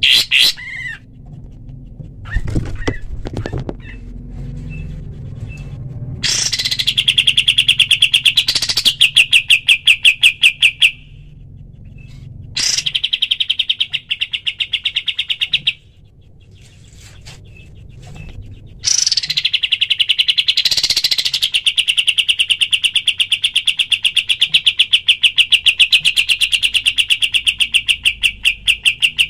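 Kapas tembak (Javan grey-throated white-eye) giving its rattling 'tembak' calls: long, fast trains of evenly repeated sharp notes in three bursts with pauses between, the last and longest starting about 19 seconds in. A few short chirps open it.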